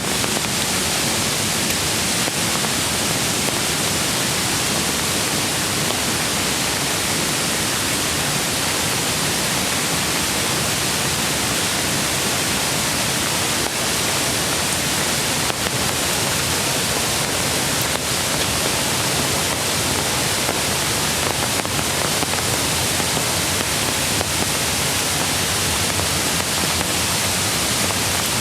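Steady, even rush of a mountain creek's flowing water.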